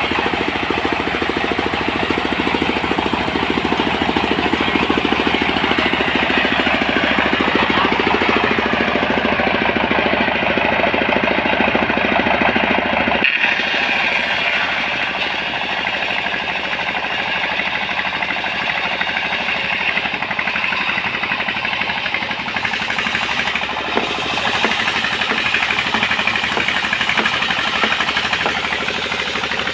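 Engine-driven portable sawmill running steadily, a dense rapid mechanical clatter, with a brief shift in its sound about a third of the way in.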